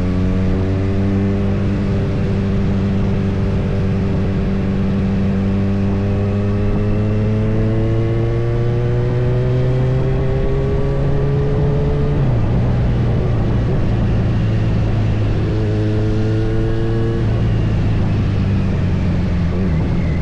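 Kawasaki Z900's inline-four engine running on the move, its note climbing slowly for about twelve seconds, then dropping suddenly and climbing again briefly, over a steady rush of wind and road noise.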